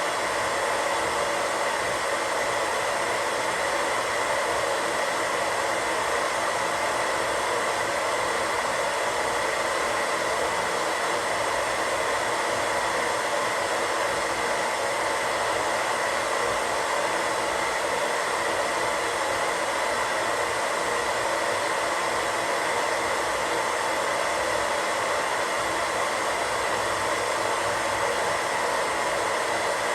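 Radio static: steady hiss of an untuned radio, even and unchanging throughout.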